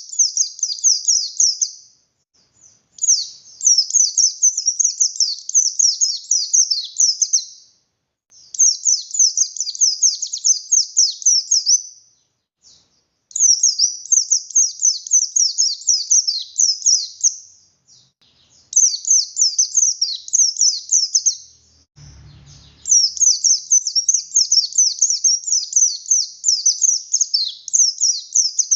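Pleci (a 'buxtoni' white-eye) singing in full song: long runs of rapid, high chattering notes lasting several seconds each, separated by pauses of about a second. There is a brief low bump about 22 seconds in.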